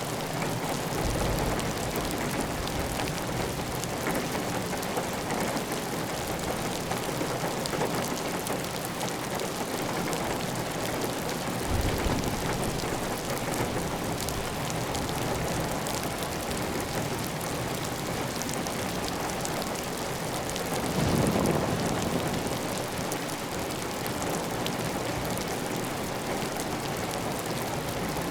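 Steady heavy rain on a tiled roof, with water running off the roof edge in a continuous wash. A few brief low rumbles swell up through it, the loudest about 21 seconds in.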